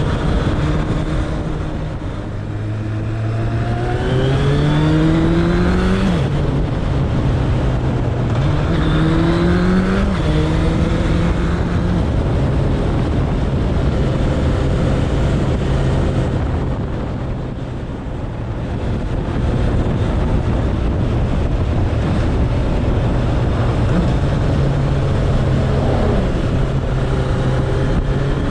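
Suzuki Bandit 1200's inline-four engine heard while riding, accelerating through the gears: its pitch climbs twice and drops sharply at each upshift, about six and ten seconds in, then holds steady at cruising speed.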